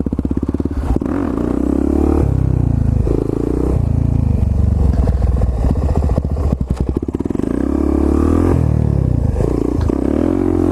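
Single-cylinder four-stroke dirt bike engine revving up and dropping back again and again as it rides over rough, bumpy ground, with a few brief clatters.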